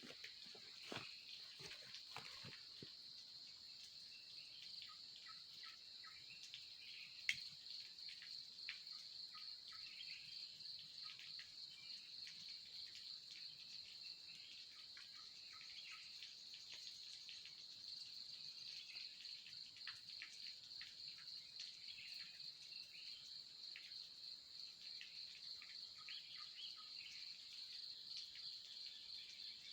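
Insect chorus of crickets or similar insects: a faint, steady, high, rapidly pulsing trill. A few soft clicks sound in the first seconds, and one sharp click comes about seven seconds in.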